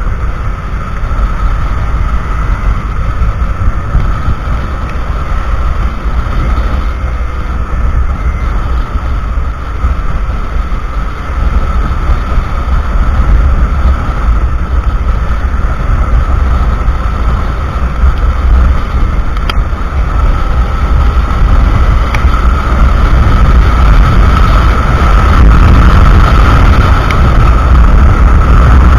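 Wind rumbling and buffeting on an action camera's microphone on a moving motorcycle, with a steady high hum over it. It grows louder over the last part as the ride goes on.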